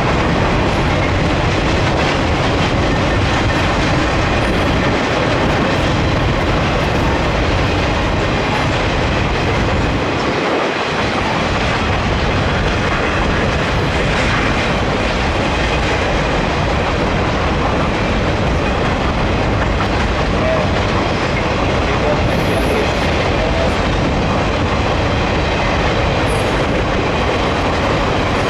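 Sugarcane freight train rolling past at close range, its cars' wheels clattering steadily over the rails.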